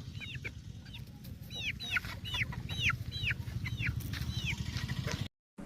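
Chickens giving repeated short high-pitched calls, each one dropping in pitch, about two to three a second over a low steady rumble. The sound cuts off suddenly near the end.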